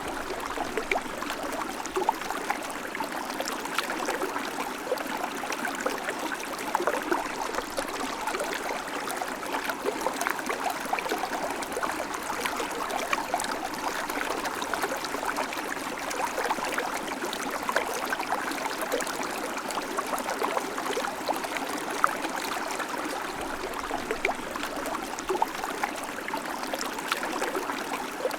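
River water flowing over stones, a steady rushing with many small splashes and gurgles.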